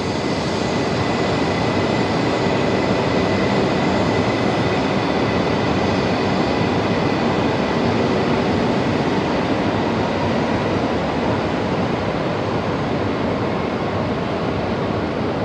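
E2 series Shinkansen train pulling out of the platform: a steady rushing running noise with a faint high whine in the first few seconds. The noise builds slightly, then slowly eases as the train draws away.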